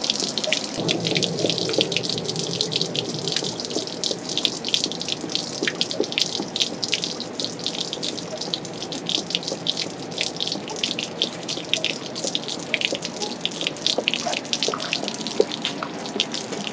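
Water pouring out of an RV water heater's drain opening as the tank is drained and flushed, splashing steadily with many small spatters.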